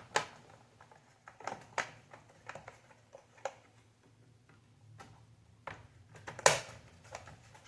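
Scattered small clicks and taps of hands handling and fitting parts, with one sharper click about two-thirds of the way through.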